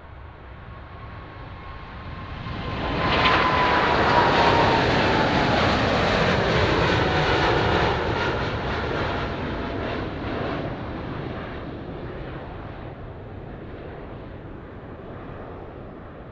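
Boeing 747 four-engine jet passing close by, swelling to a loud peak a few seconds in and then fading away, with an engine whine that falls in pitch as it goes past.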